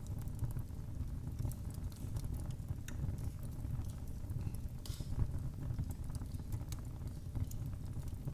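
Wood fire burning in a fireplace: a steady low rumble of the flames with frequent small, irregular crackles and pops, a slightly louder pop about five seconds in.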